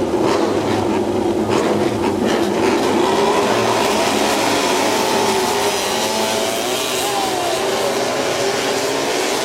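Several MotoGP racing motorcycle engines running together on the grid, their revs rising and falling.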